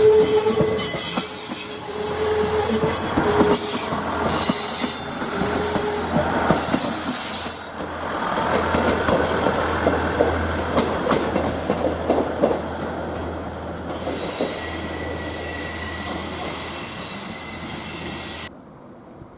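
KiHa 110 series diesel railcars running slowly into the depot, their wheels squealing on curved track and points, then clattering over rail joints with a low hum underneath. The sound cuts off sharply near the end.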